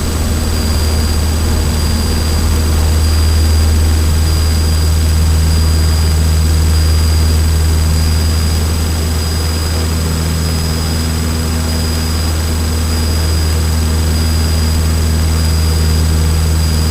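Cessna 152's four-cylinder piston engine and propeller running steadily at full power during the takeoff climb of a touch-and-go, heard from inside the cockpit as a deep, even drone.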